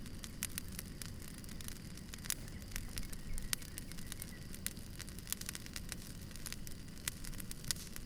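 Campfire crackling: irregular sharp snaps and pops, several a second, over a low steady rumble of the burning wood.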